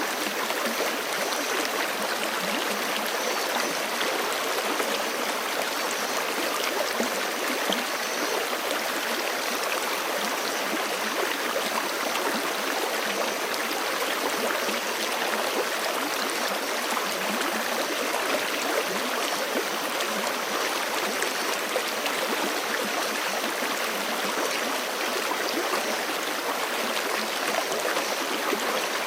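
Forest creek running steadily over rocks, an even rush of flowing water with no pauses or breaks.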